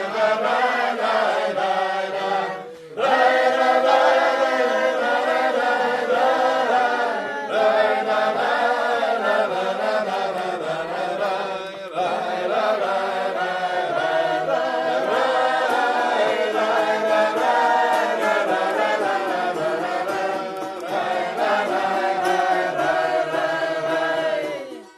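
A group of voices singing a melody together in long phrases, with short breaks between them, between verses of a Russian folk song.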